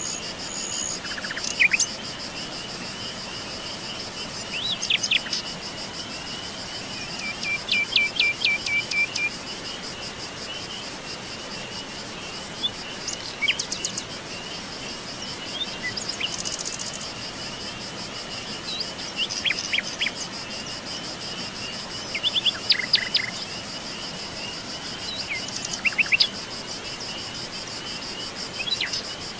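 Songbirds calling in short chirping phrases every few seconds over a steady, continuous high-pitched trill of insects. About a third of the way in, one bird gives a rapid string of repeated notes.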